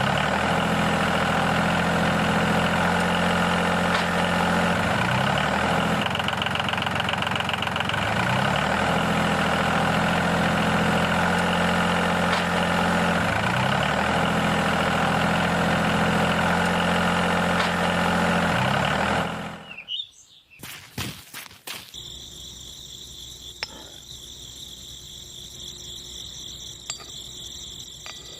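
Tractor engine running steadily, with a short change in pitch every four to five seconds. It cuts off about twenty seconds in, leaving faint insects and birds chirping.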